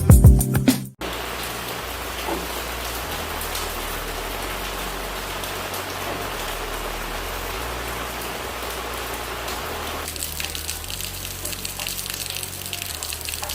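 Steady rain falling, an even hiss, with soft low background music underneath; about ten seconds in the hiss thins and a finer, higher patter of drops comes to the fore. A louder music intro cuts off in the first second.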